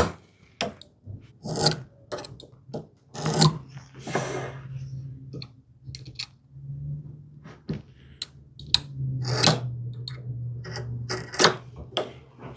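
Hand woodworking tools handled on a wooden workbench: a string of irregular taps and knocks as tools are picked up and set down, with a short scraping stroke on wood about three to four seconds in.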